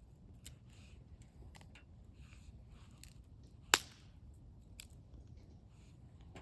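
Small wood fire crackling faintly with scattered light ticks, and one sharp, loud pop a little past halfway.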